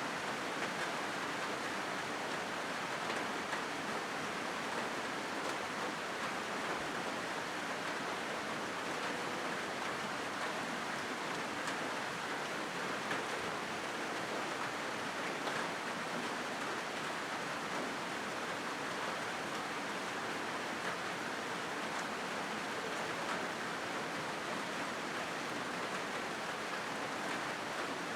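Steady rain falling on a corrugated zinc roof: an even hiss with faint scattered ticks of drops.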